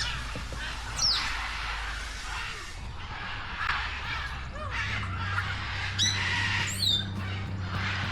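A flock of captive birds in a bird-park aviary chattering and chirping, with sharp downward-sweeping squawks about a second in and again near six seconds, followed by a wavering call.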